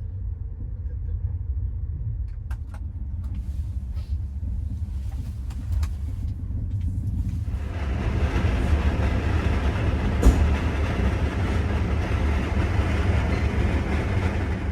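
Sleeper train running, heard from inside the carriage: a steady low rumble with a few light clicks, which turns much louder and noisier about halfway through, with a single knock a few seconds later.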